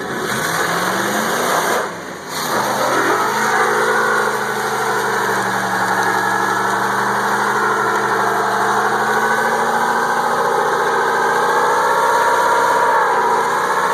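Pickup truck engine revving up, dropping off briefly about two seconds in, then held at high revs with its pitch slowly climbing.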